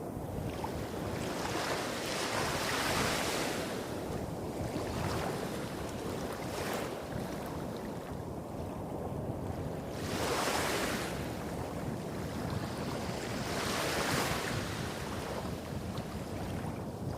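Small sea waves breaking and washing up the shore, about five washes a few seconds apart, each swelling and fading. Beneath them runs a steady low rumble of waves hitting rocks further along the coast.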